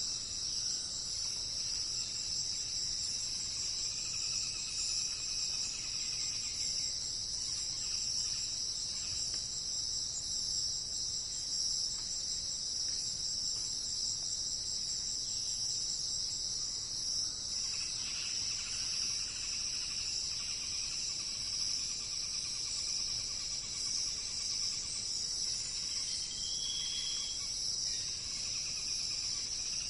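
A steady, high-pitched chorus of insects trilling, cricket-like, with a few faint bird calls now and then.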